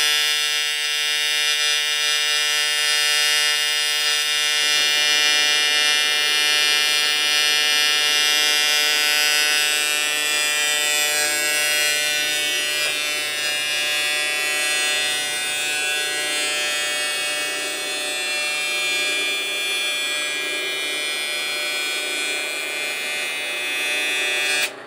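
Electric welding arc buzzing steadily as a robot frame is welded, its tone shifting about five seconds in. The arc cuts off just before the end.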